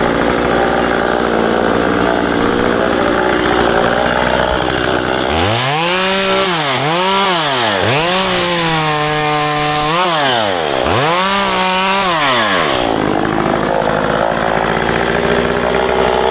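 Small petrol engine of a tree-pruning power tool, likely a chainsaw, running at high speed. About a third of the way in it revs up and down several times, holding high between the dips, then settles back into a steady, rougher run.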